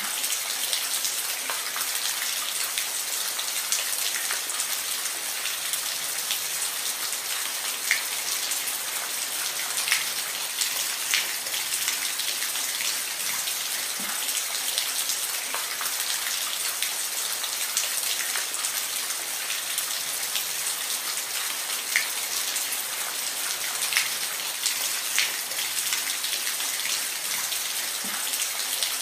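Steady rain falling, a continuous hiss with scattered louder drops ticking on a surface.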